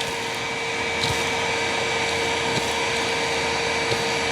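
Hoover WindTunnel upright vacuum running steadily, with a steady motor whine, sucking up a pile of dirt without the brush roll, a few small ticks of debris passing through.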